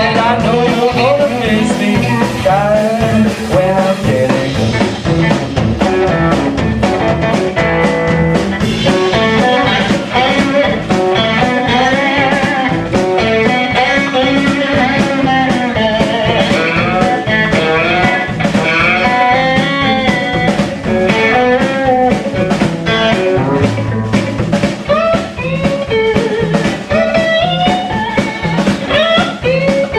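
Blues-rock band playing an instrumental passage: an electric guitar lead with bent, sliding notes over a steady drum beat.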